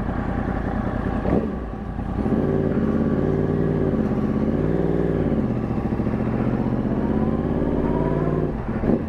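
Motorcycle engine running under way. It gets louder about two seconds in, climbs in pitch and drops back around the middle, then holds steady.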